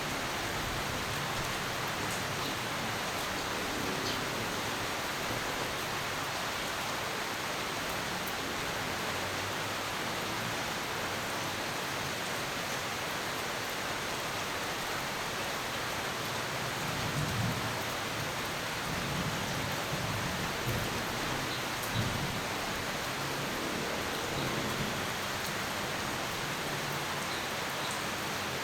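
Steady rain falling in an even hiss, with low rumbles of thunder swelling briefly about two-thirds of the way through.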